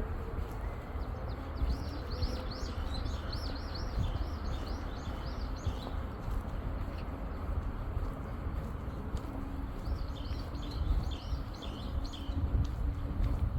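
Small songbirds chirping in two runs of quick, rapidly repeated arched notes, the first starting about a second and a half in and the second near the end, over a steady low rumble.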